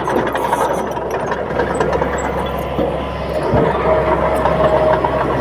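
Bulldozer's diesel engine running steadily, with a single low thump a little past halfway.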